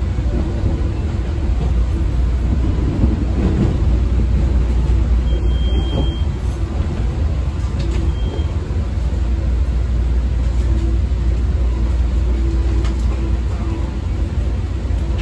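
Steady low rumble of a CTA 5000-series rapid-transit car running along the track, heard from inside the car: wheels on rail and traction motor noise.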